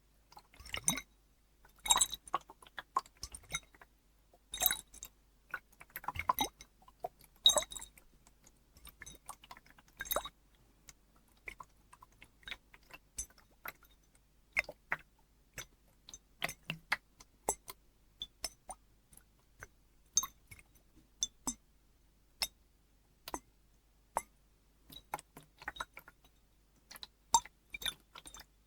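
Water moving in a glass bottle: irregular glassy clinks and small liquid splashes, a few louder clinks ringing briefly.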